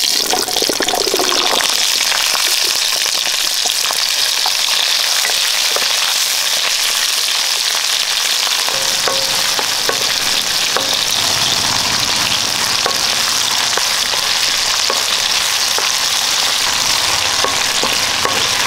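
Whole shallots and fennel seeds sizzling in hot oil in a kadai, a steady frying hiss. From about halfway, a wooden spatula stirs them with light knocks against the pan.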